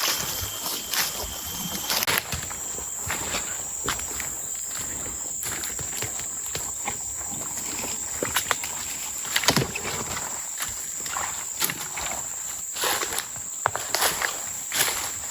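Footsteps of a person walking upstream along a forest creek: irregular crunches and rustles, some steps louder than others, over a steady high-pitched insect drone.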